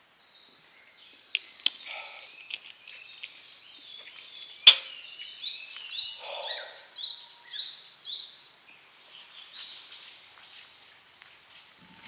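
Wild birds singing, including a run of about eight quick repeated sloping notes in the middle. A sharp crack about a third of the way in is the loudest sound, with a fainter click before it.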